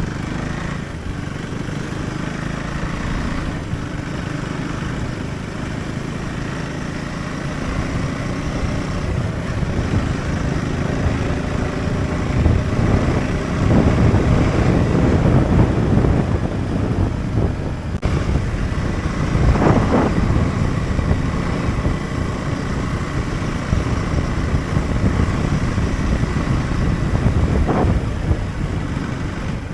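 Husqvarna Svartpilen 401 motorcycle being ridden, its single-cylinder engine running under a dense rushing noise. The sound is louder through the middle stretch, with brief swells later on.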